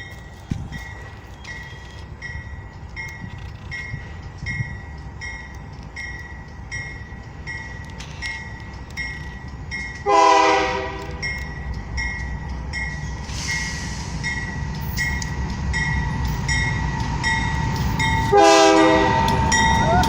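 A diesel-electric freight locomotive, a GE AC44i, sounds its air horn in two short blasts, one about halfway and one near the end, while its rumble slowly grows louder as it approaches. A high ding repeats steadily, about one and a half times a second.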